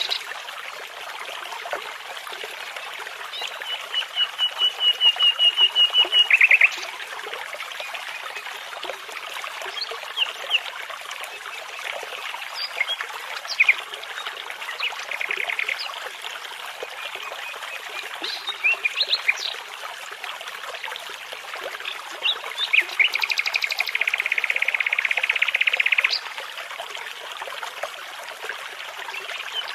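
Nightingale song over the steady rush of a babbling brook. The phrases are fast runs of repeated notes; one grows louder for about three seconds and then stops sharply. Near the end comes a long, rapid trill.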